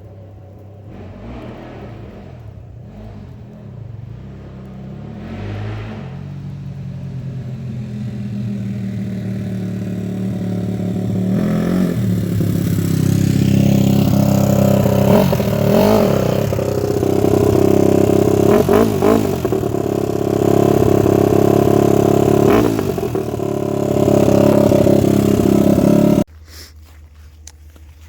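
Dirt bike engine running and revving up and down through the gears, getting steadily louder over about ten seconds. The sound cuts off suddenly near the end, leaving a faint low hum.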